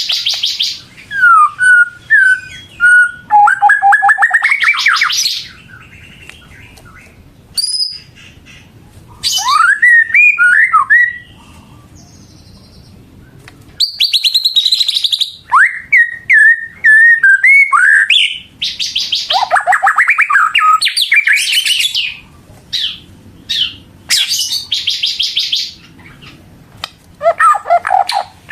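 White-rumped shama (murai batu) in full song. It sings loud phrases of fast, buzzy trills and clear whistled notes that slur up and down, with short pauses between the phrases.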